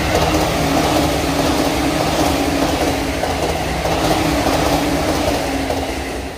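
JR East E233-7000 series Saikyo Line electric train passing at high speed: a loud, steady rumble of wheels on rail with a low hum under it, easing off near the end as the last cars go by.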